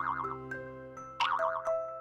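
Cheerful children's background music: steady held notes with a springy, wobbling 'boing' effect that comes twice, at the start and about a second in.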